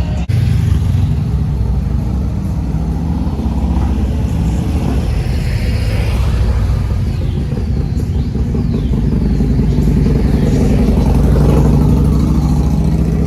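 Motorcycle engines running with a deep, steady rumble, growing a little louder about ten seconds in.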